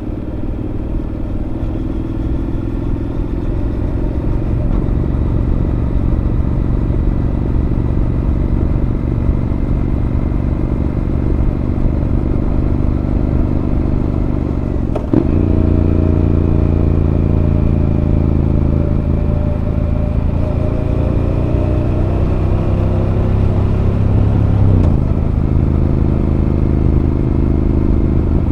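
Exhaust of a Honda NC750X parallel-twin motorcycle fitted with a Moriwaki aftermarket muffler, heard while riding at a steady pace. The engine note changes sharply about halfway in, getting louder and deeper, and shifts again a few seconds before the end.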